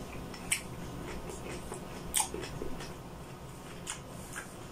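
Close-up chewing and wet mouth smacks of a person eating, with a few sharp clicks about half a second, two seconds and four seconds in.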